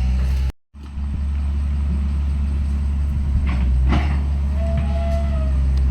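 Heavy earthmoving machine's diesel engine running steadily, with a few knocks about halfway through. The sound cuts out completely for a moment about half a second in.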